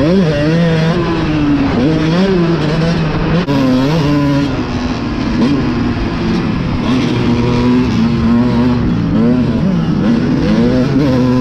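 Dirt bike engine revving up and down over and over as the throttle is worked riding a motocross track. The pitch climbs and drops every second or two, with a constant rush of noise underneath.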